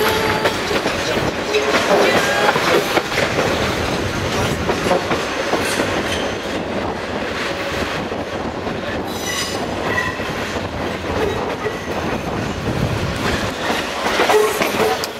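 Sleeper train rolling through a station yard, its wheels clattering over rail joints and points, with brief high wheel squeals at the start and again near the end.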